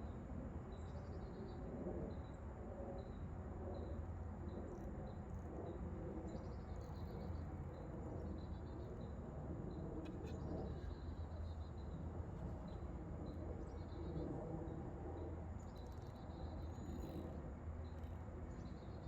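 Outdoor ambience: a steady low rumble with a faint insect chirping at a regular pace, about two chirps a second, and one faint click about halfway through.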